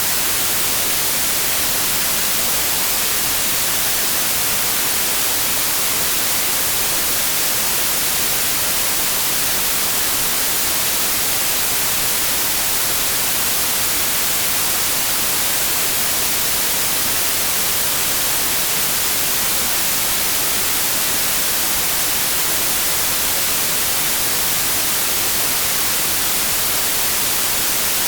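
Steady synthetic white noise: an even, unbroken hiss across the whole range, strongest in the highs.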